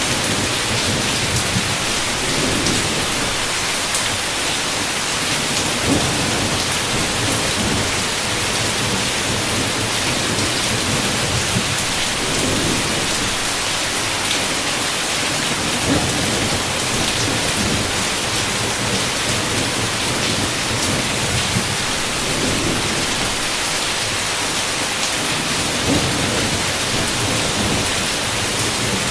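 Heavy rain falling in a steady hiss, with low thunder rumbling several times underneath and a few sharp drop hits.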